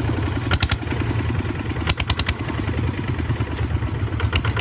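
Tractor engine running steadily with a rapid, even chugging, and short bursts of clatter about half a second in, around two seconds in and near the end.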